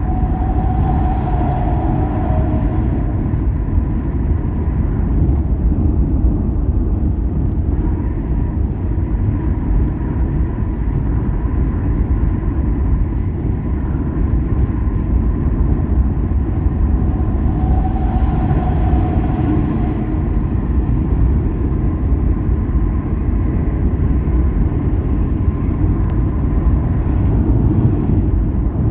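Moving vehicle's steady engine and road rumble, with a faint steady whine.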